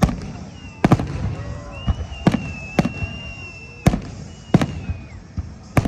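Salute fireworks going off: about seven sharp bangs at uneven spacing over a low rumble, with a high whistling tone held through the middle.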